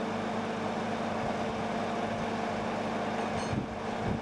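1946 Dodge truck's flathead six running steadily, fed by its freshly cleaned mechanical fuel pump, with a short click about three and a half seconds in.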